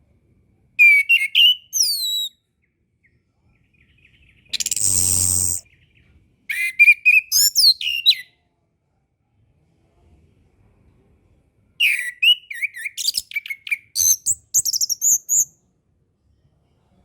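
Chestnut-capped thrush (anis kembang) singing: three bursts of rapid, high whistled notes sliding up and down, each a second or more long, with pauses between. About four and a half seconds in, a harsh buzzy burst lasts about a second.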